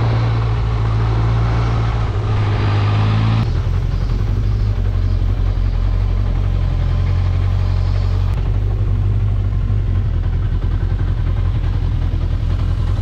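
Suzuki GSX-R1100W's inline-four engine and exhaust running steadily, its note shifting to a lower pitch about three and a half seconds in.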